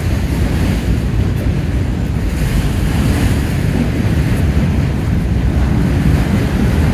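Norfolk Southern freight train's tank cars and autorack cars rolling past: a steady low rumble, with wind buffeting the microphone.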